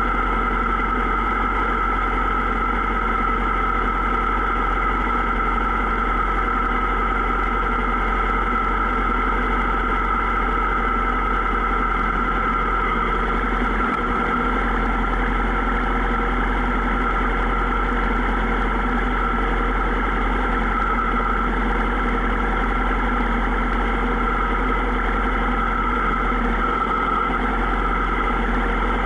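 Motorcycle engine running at a steady, unchanging pitch, with no revving.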